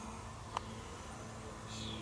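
Faint calls of common starlings, with a single falling high call near the end, over a low steady hum. A sharp click sounds about half a second in.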